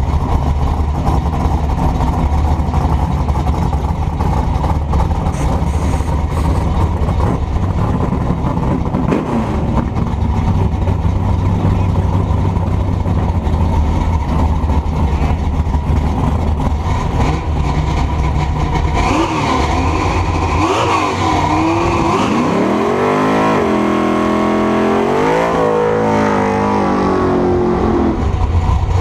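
Truck engine and exhaust running at a steady low rumble, with wind noise on the microphone. About two-thirds of the way through an engine revs up hard, rising in pitch, then drops back to the low rumble near the end.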